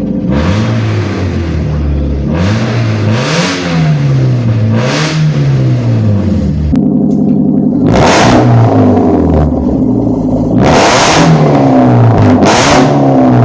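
2007 Nissan Altima's QR25DE four-cylinder, fitted with a 2J Racing medusa header and a custom single-exit cat-back exhaust, being revved repeatedly. The pitch rises and falls about half a dozen times, turning loud and raspy at the top of each rev.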